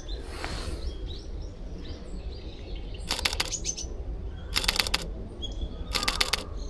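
Three quick bursts of camera shutter clicks from a Fujifilm X-H1, each a rapid run of several clicks, about a second and a half apart, with faint small-bird chirps underneath.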